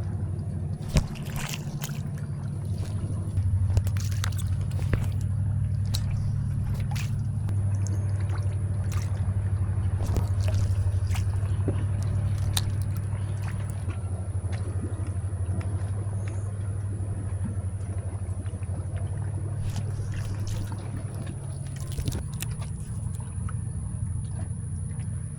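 A boat's engine running steadily, its low hum shifting a few times, with water trickling and scattered sharp knocks and clicks.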